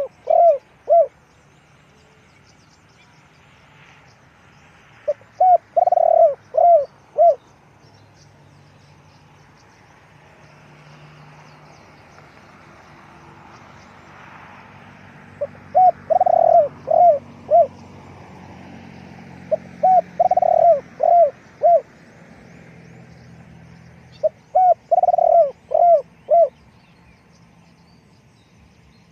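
Spotted dove cooing: phrases of four or five short, arched coos, repeated four times with gaps of a few seconds to about ten seconds between them. Faint chirps of small birds sound in the background.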